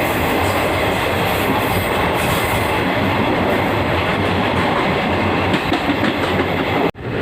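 Passenger train running on the line, a steady loud rumble and rattle of wheels on track as heard on board. It cuts out abruptly for an instant near the end.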